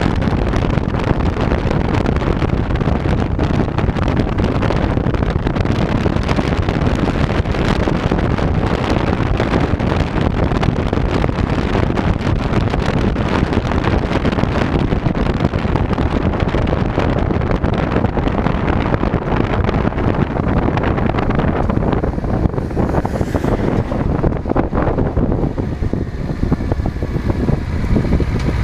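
Wind rushing over a chest-mounted GoPro during a bike ride, mixed with road and vehicle noise; the rush thins out near the end as the ride slows.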